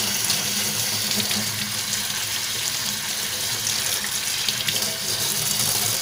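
Kitchen tap running steadily into a stainless steel sink, the water splashing over hands rinsing pieces of pork intestine, with a few small taps and splashes.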